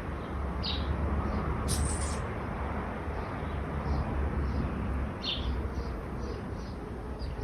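Small birds chirping in short repeated notes, two louder chirps standing out, over a steady low rumble of road traffic. A brief higher, sharper call comes about two seconds in.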